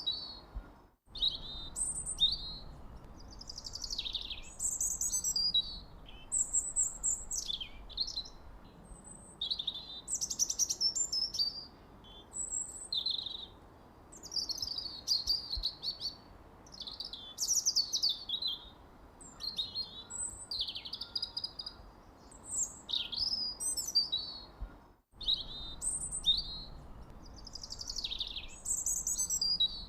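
Songbirds chirping and singing: short, varied, high-pitched sweeping phrases, one every second or two, over a faint hiss. The sound drops out very briefly twice.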